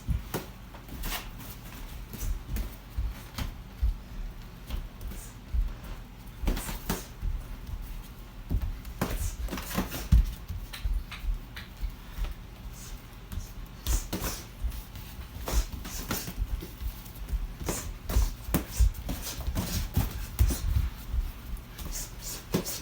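Boxing gloves smacking and thudding in irregular flurries of punches during sparring, loudest about ten seconds in.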